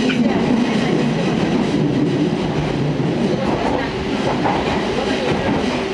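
Fukui Railway Fukubu Line train running along the line, heard from inside the passenger car: a steady rumble of wheels on rail and car body noise.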